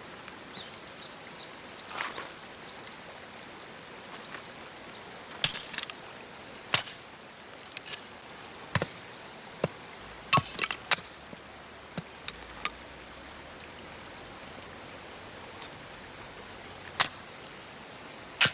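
Steady rush of a small mountain stream, with a dozen or so sharp knocks and clacks at irregular intervals, the loudest a little over five seconds in, near seven seconds, about ten seconds in and near the end. A small bird chirps a quick run of short notes in the first few seconds.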